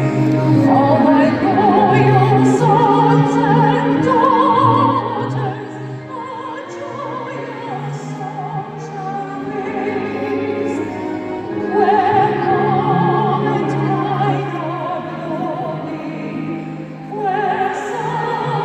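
Operatic singing: a solo voice holding long notes with a wide vibrato over sustained orchestral-style accompaniment. The music eases off about six seconds in and swells again about twelve seconds in.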